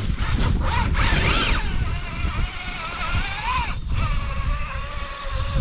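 Electric motor and drivetrain gear whine of a radio-controlled rock crawler, rising and falling in pitch with the throttle as it crawls. The whine climbs about three and a half seconds in, cuts out briefly, then holds steadier, over a low rumble.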